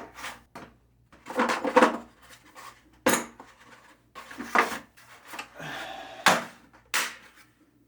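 Metal hand tools and puller parts clinking and clanking as they are handled and set down, a string of separate sharp metallic knocks with a short scraping rattle about six seconds in.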